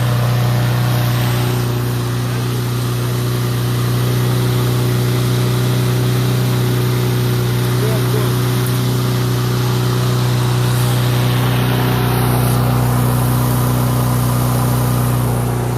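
Honda single-cylinder four-stroke engine on a Troy-Bilt walk-behind lawn mower, running at a steady speed, now starting and running after its carburetor was cleaned.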